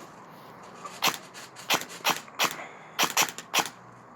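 Airsoft gun firing about seven single shots in quick, uneven succession, each a short sharp crack.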